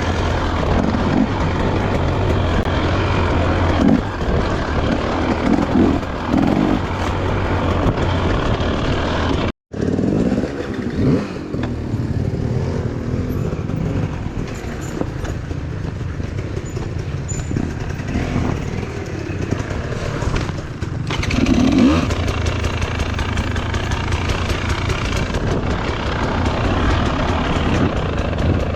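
Dirt bike engine running and revving while riding. The sound breaks off for an instant about ten seconds in.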